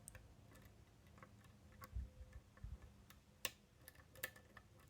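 Faint, irregular clicks of a lock pick working the wafers of a Miwa DS ten-wafer lock, with one sharper click about three and a half seconds in.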